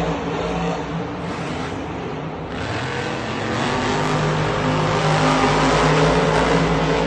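Monster truck's supercharged V8 engine running loudly, easing off in the first few seconds and picking up again about four seconds in.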